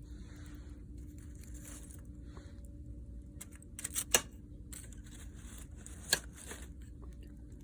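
Light handling noises over a steady low hum, with two sharp clicks, the first about four seconds in and the louder of the two, the second about two seconds later.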